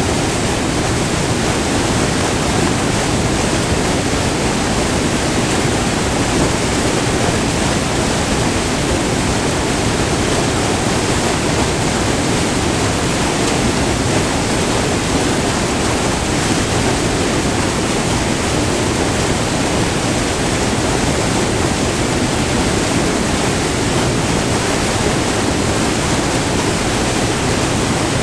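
Multi-tiered river waterfall rushing, close up: white water pouring over rock in a loud, steady rush that does not change.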